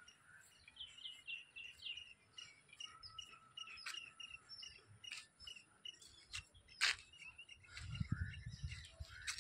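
Birds chirping outdoors, a run of short repeated notes, over a faint steady high insect drone. A single sharp click about seven seconds in, and a low rumble near the end.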